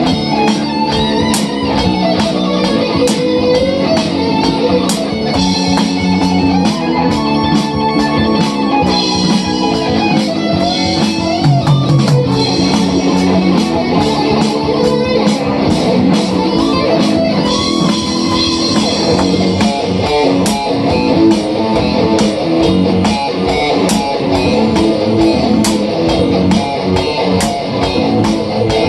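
Hard rock music: electric guitar playing fast runs of notes over a drum kit, with regular sharp cymbal and drum hits.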